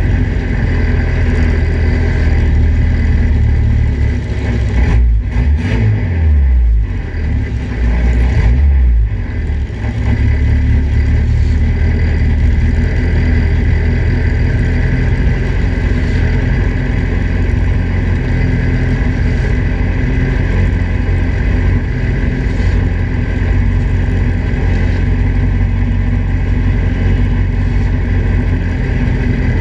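Datsun Roadster race car's four-cylinder engine idling steadily, heard from its open cockpit. The low rumble swells unevenly for a few seconds about five seconds in, then settles back to a steady idle.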